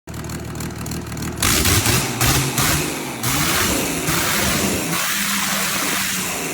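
A high-powered engine, billed as 500 hp, revved in several quick blips in the first few seconds, then held at a steady run.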